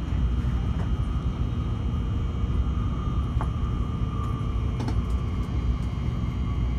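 Shinkansen bullet train running, heard from inside the passenger cabin: a steady low rumble of running noise, with a couple of faint clicks around the middle.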